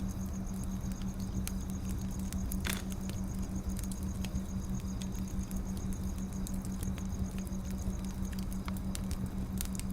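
Wood fire crackling: sharp pops and clicks at irregular intervals, one slightly longer crackle about three seconds in, over a steady low hum.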